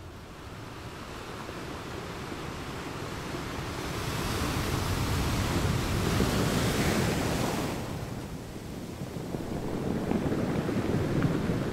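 Wind buffeting the microphone over the wash of sea water, with no clear tones. A louder rushing hiss swells up a third of the way in and cuts off suddenly about two-thirds through, and the low rumble rises again near the end.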